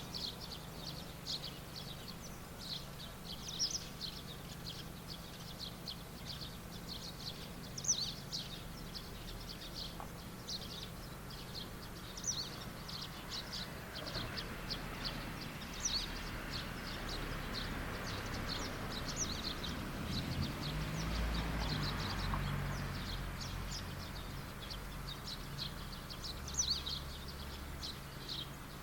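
Small birds chirping steadily in rapid short calls. About halfway through, a distant engine rises and fades as it passes.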